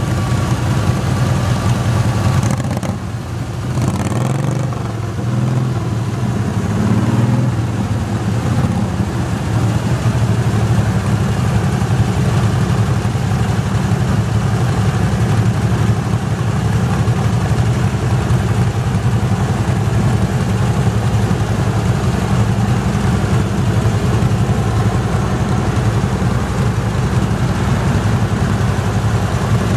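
Garden tractor engine running hard and steady at a tractor pull, its note dropping briefly about three seconds in before picking back up.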